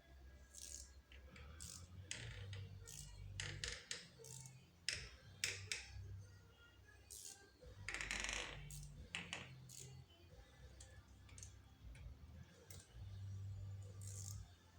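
Scattered light clicks and clinks of hand tools and small metal parts being handled during engine work, with a longer scraping rustle about eight seconds in.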